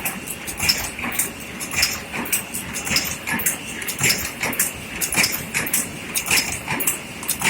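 Coffee-cup making machine running, its mechanism clacking and knocking in a steady repeating cycle about once a second, with lighter clicks between and a constant high hiss.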